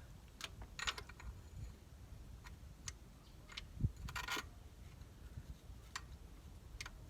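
Scattered light metallic clicks and taps from a bolt being set into its hole and started in its threads by hand, with a dull knock about four seconds in.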